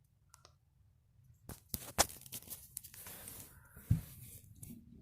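Wind gusting hard, with a few sharp knocks and rattles about a second and a half in, the loudest near two seconds, then a rushing gust and another thump near four seconds.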